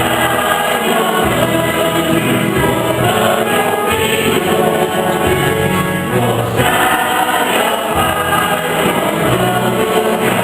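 Church choir singing a hymn with instrumental accompaniment and a steady bass line.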